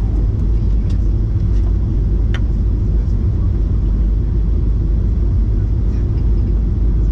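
Steady low rumble of a Ryanair Boeing 737 airliner's cabin noise, engines and airflow heard from a window seat, with a faint click about two and a half seconds in.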